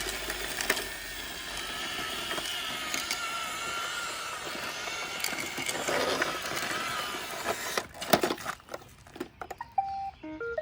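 iRobot Roomba 671 robot vacuum running over a gritty driveway, its motors whining with an unsteady pitch and brushes scraping grit. About eight seconds in it goes quiet after a few clicks, and a short run of electronic beeps at different pitches follows near the end.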